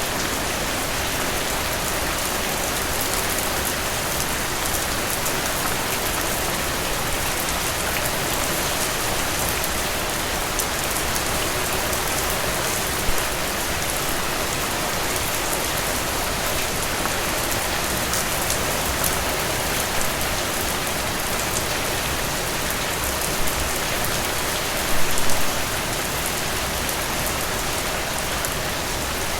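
Steady, even rain falling, with a few louder drops standing out now and then, including a short cluster of them near the end.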